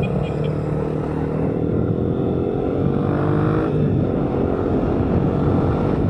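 A vehicle engine running steadily under load, its pitch rising slightly during the first few seconds and then holding, over a rushing noise of wind and road.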